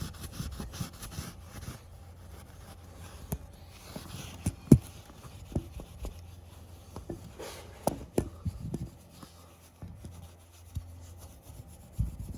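Abrasive pad scrubbing rust off a chrome motorcycle wheel rim: irregular rubbing and scraping strokes, with scattered light clicks and knocks. The sharpest knock comes about a third of the way in.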